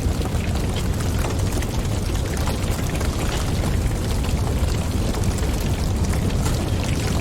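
Wood fire burning, with a steady low rumble of flames and many small crackles and pops throughout.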